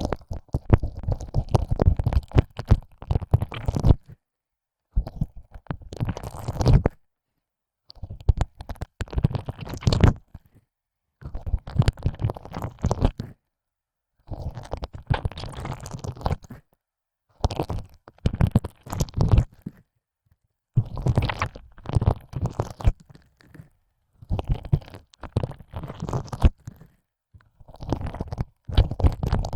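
Wet tongue sounds of ear licking, the tongue pushed in and out of an ear opening: clicky, slurping bursts one to three seconds long, split by short silent gaps, with no voice.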